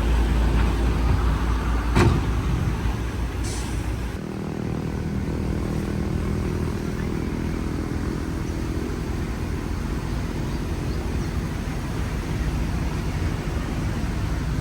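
Heavy earthmoving machinery, diesel engine running under load with a deep rumble, a single sharp metallic clank about 2 seconds in and a brief hiss just after. About 4 seconds in it gives way to a steadier, even engine drone.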